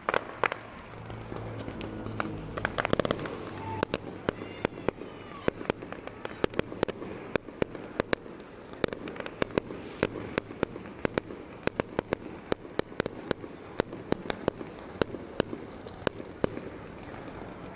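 Fireworks show: sharp bangs and pops in quick, irregular succession, several a second, with a few faint short whistles.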